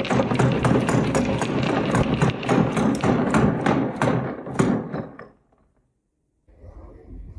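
Marbles rolling and clattering down a wooden HABA marble run, a dense stream of rapid clicks and knocks that thins out and stops about five seconds in, then a fainter rattle starts again near the end.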